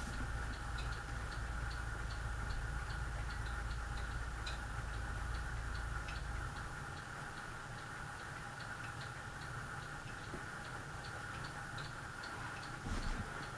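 Steady mechanical ticking, about four light ticks a second, over a low hum that drops away about six and a half seconds in.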